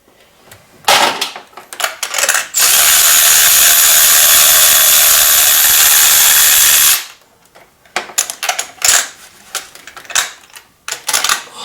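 A shop tool running steadily for about four seconds: a loud, even rushing whir. Sharp clicks and clatter of tools being handled come before and after it, during spark-plug work on the engine.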